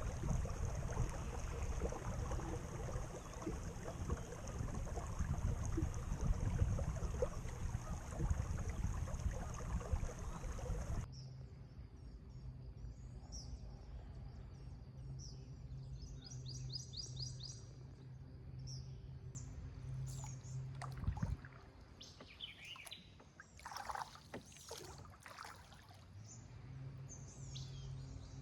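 Wind and water noise as a small sailing skiff moves along, with a steady high whine. About eleven seconds in it cuts to a quieter spot: a low steady hum with birds chirping, one fast trill and then several calls with sweeping notes.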